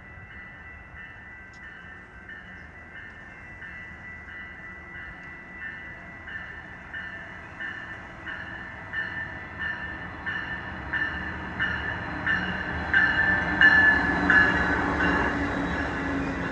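A train drawing near with a warning bell ringing about twice a second, both growing steadily louder and loudest about three-quarters of the way through.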